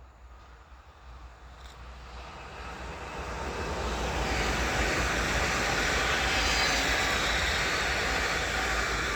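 PKP Intercity ED160 (Pesa Dart) electric multiple unit passing at speed, a rushing noise that swells over the first few seconds and stays loud as the train goes by.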